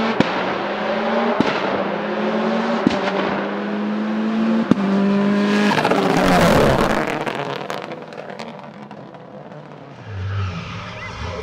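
Race car accelerating hard up a hillclimb course. The engine note climbs and drops four times as it shifts up, with a sharp crack at each gear change. It then rushes past close by about six seconds in and fades away, and another engine comes in near the end.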